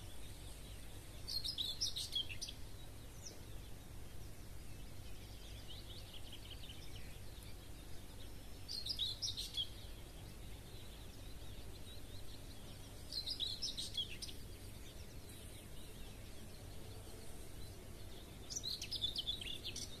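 A songbird singing short, high-pitched phrases of about a second, four times several seconds apart, with a fainter phrase between the first two. Underneath runs a steady low background rumble.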